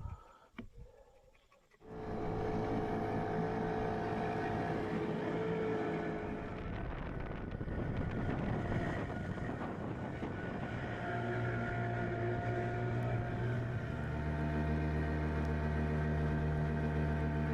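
Boat motor running steadily, cutting in suddenly about two seconds in after a near-quiet moment; its note settles lower and fuller about three quarters of the way through.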